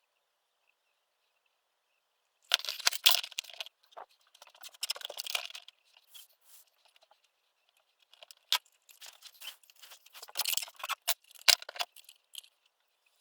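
Irregular handling noises: rustling and scraping in uneven bursts, with several sharp clicks, the loudest near the end.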